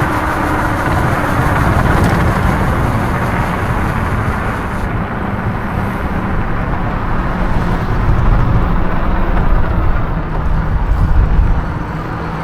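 Wind buffeting the microphone while an e-bike rides along a road, with steady tyre and road noise underneath; the rumble is strongest a few seconds before the end and then eases.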